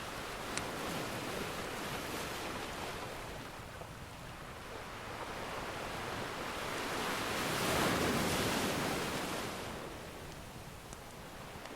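Ocean surf washing steadily, with one wave swelling up loudest about two-thirds of the way through and then receding. A few faint fire crackles tick over it, near the start and near the end.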